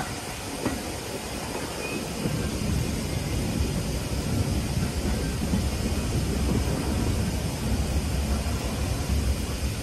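Heritage railway carriage running along the line at night: a steady rumble of wheels on track, growing louder about two seconds in, with a single click early on.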